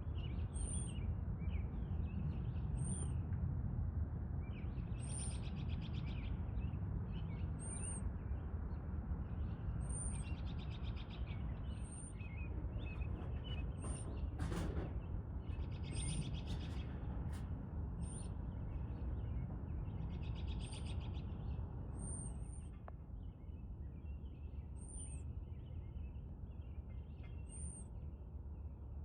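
Songbirds calling and singing: a short, very high call repeats about every two seconds, with buzzy trills in between, over a steady low rumble of outdoor noise.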